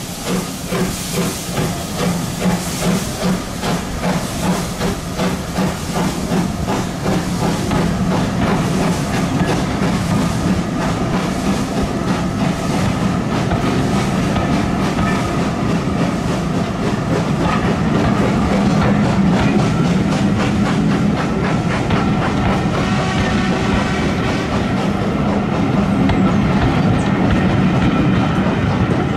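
Passenger coaches of a steam-hauled train rolling past, their wheels clicking rhythmically over the rail joints, with a steady low rumble. Steam hiss from the passing locomotive dies away in the first few seconds.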